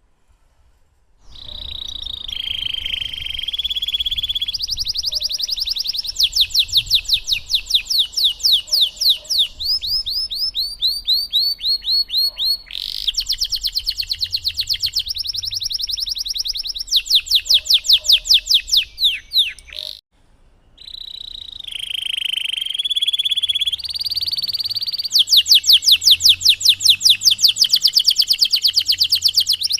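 Domestic canary singing a long, loud song of fast trills and rolling phrases, each made of rapidly repeated high notes. It begins about a second in, breaks off briefly about twenty seconds in, and then starts again.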